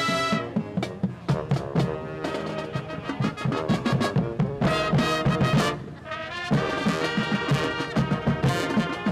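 High school marching band playing: brass chords over a steady drum beat, with a brief break a little past the middle.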